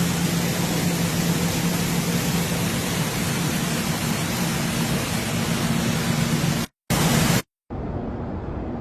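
Loud, steady rushing storm noise, wind and rain on the microphone, with a low hum under it. It cuts out abruptly twice near the end and gives way to a quieter, duller rushing.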